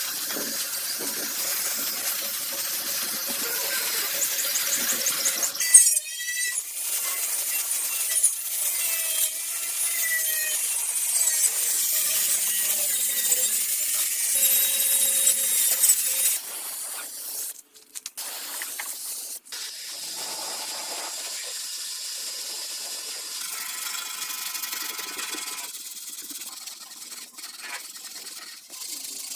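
Workshop tool noise: a harsh scraping or abrading hiss with intermittent squealing tones, changing abruptly a little past halfway and continuing more quietly after that.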